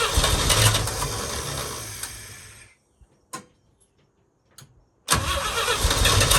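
A 1966 International Harvester pickup's BG 241 inline-six being cranked by its starter in two tries of about three seconds each, with a few sharp clicks in the pause between them. Each try fades as it goes on. The long-stored engine turns over but does not catch.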